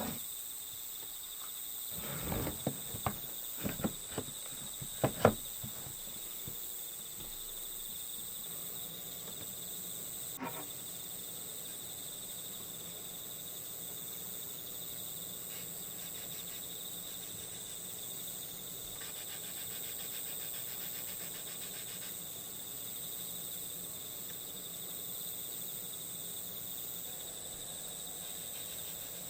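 Crickets chirring steadily, with a faint trill joining in about twenty seconds in. In the first six seconds there is a string of sharp clicks and taps, and one more click comes about ten seconds in.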